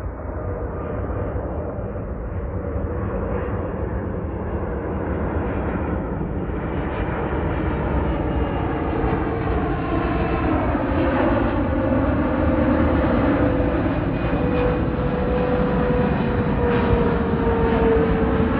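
Jet airliner's engines on landing approach, growing steadily louder as it nears. A whine runs through the noise and slides slightly lower near the end.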